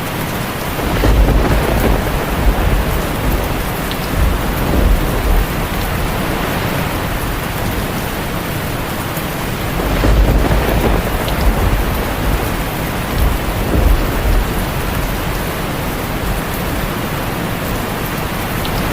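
Heavy rain falling steadily on a tin roof, with two low rolls of thunder, one starting about a second in and another about halfway through, each rumbling on for a few seconds.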